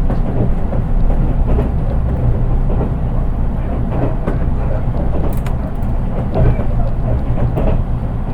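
Interior running sound of a JR East 183 series electric train heard from inside its KuHa driving trailer car, which has no traction motors: a steady low rumble of wheels on rail with a few light clicks.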